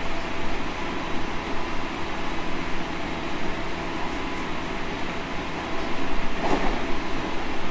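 Inside a JR Central 313 series 5000-subseries electric multiple unit: the steady running noise of the car on the rails, with a faint steady whine and a brief louder swell about six and a half seconds in.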